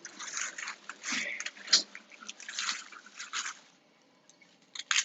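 Irregular crinkling and rustling for nearly four seconds, then a few light clicks and taps near the end.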